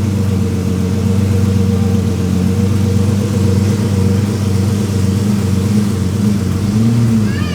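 Lamborghini engine running steadily at low speed while the car is eased into place, with a brief slight rise in pitch near the end.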